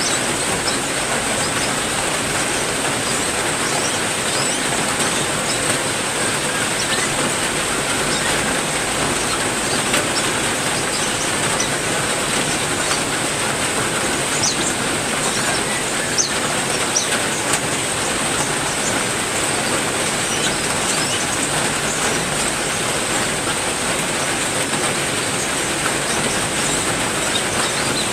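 Heavy rain falling steadily, with a few short, high bird chirps scattered through it.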